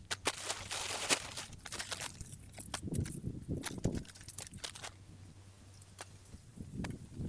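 Irregular sharp clicks and knocks with some rustling.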